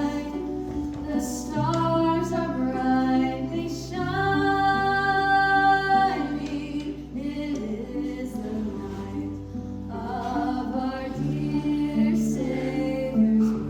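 Christmas carol sung by several voices over instrumental accompaniment, with long held notes.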